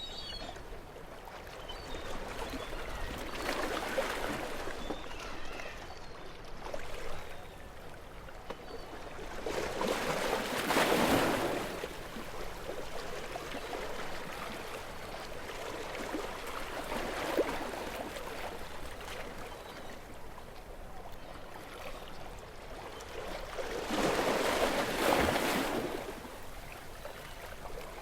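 Gentle sea waves washing on a shore, with a few louder swells of surf every several seconds and quieter wash and trickle between them.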